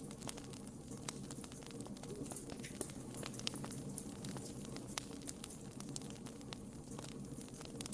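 Wood fire burning in a fireplace, with irregular sharp crackles and pops over a low steady hiss of flames.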